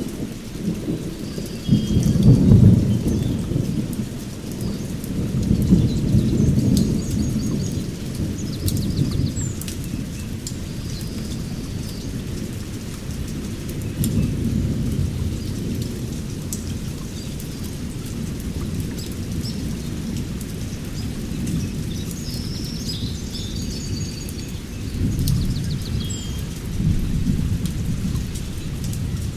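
Thunder rumbling again and again over steady heavy rain, the loudest roll about two seconds in and others swelling and fading through the stretch. Short high bird chirps sound now and then above the rain.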